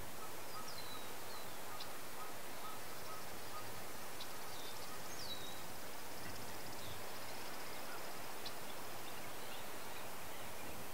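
Birds chirping over a steady outdoor hiss: a few short, high chirps that slide downward, and a high trill lasting about three seconds in the middle.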